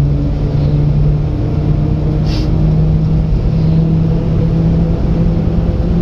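Japanese mini truck's small engine running steadily on the move, heard from inside the cab over road noise, its pitch edging up slightly and then easing off near the end. A brief hiss-like sound about two seconds in.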